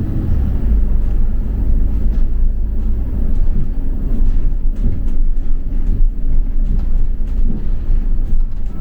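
Double-decker bus running, heard from inside the passenger cabin: a steady low engine and road rumble, with a few light clicks or rattles about halfway through.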